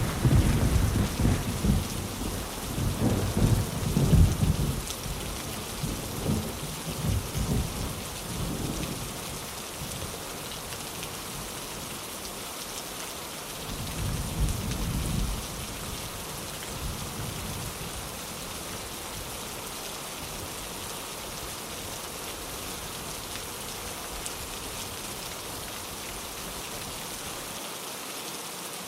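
Steady rain with thunder. A sudden clap right at the start rolls on as a low rumble that fades over about nine seconds. A second, shorter rumble comes about fourteen seconds in, after which only the even rain remains.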